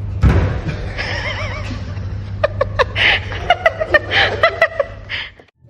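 Person laughing in quick rhythmic bursts, after a wavering pitched vocal sound in the first couple of seconds, over a steady low hum. It cuts off suddenly near the end.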